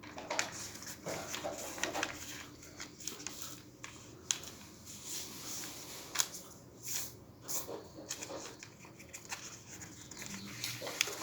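A sheet of paper being folded and creased by hand: irregular rustling with sharp crackles as the folds are pressed.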